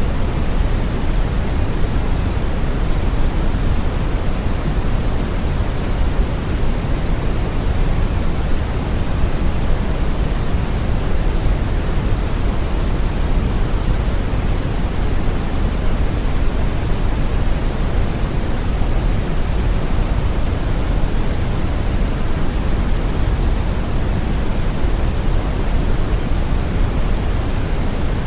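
Brown noise: a steady, unchanging hiss with most of its weight in the low end, like a deep rumble.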